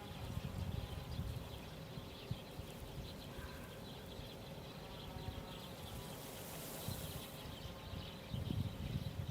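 Outdoor ambience: steady, high-pitched insect chirping over an uneven low rumble. A brief hiss comes in about two-thirds of the way through.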